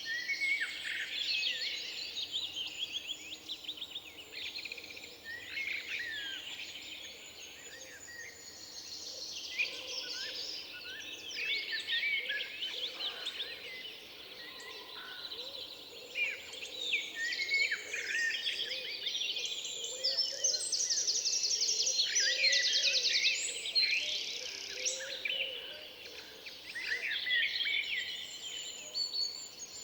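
Many songbirds singing at once in overlapping chirps, warbles and trills, with a rapid, louder trill about two-thirds of the way through.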